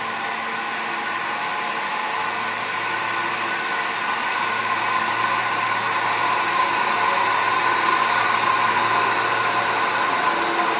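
HB-E300 series hybrid diesel train's engine running hard with a steady whine, growing slowly louder as the train pulls away.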